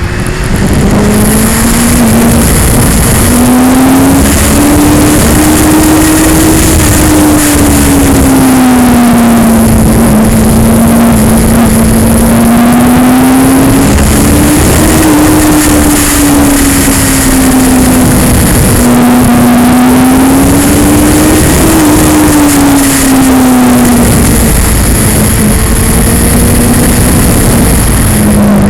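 2002 Yamaha R6's inline-four engine running under way, its pitch rising and falling again and again as the throttle is worked. It is half buried in loud wind and vibration noise on the action camera.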